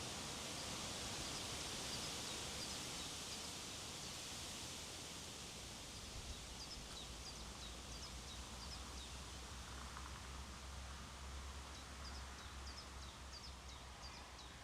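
Strong wind blowing steadily across an open hillside, easing a little partway through, with a low rumble on the microphone. Small birds chirp in quick, high notes, more often in the second half.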